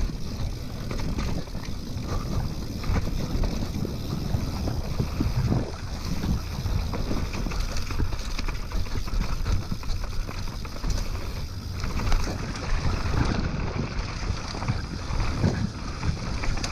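Trek Remedy full-suspension mountain bike rolling fast down a dirt trail: tyre rumble with constant rattling and knocks from the bike going over bumps, and wind buffeting the microphone.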